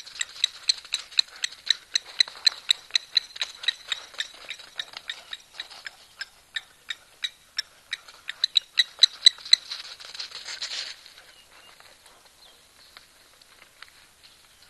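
A bird calling a long series of short, high notes, about four a second, that stops about ten seconds in, followed by a second of soft rushing noise.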